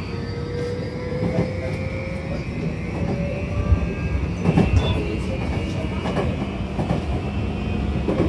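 Tokyu 2020 series electric train running, its Mitsubishi full-SiC inverter and traction motors giving thin whining tones, one rising slowly, over a steady low rumble. The wheels knock over rail joints a few times about halfway through and again near the end.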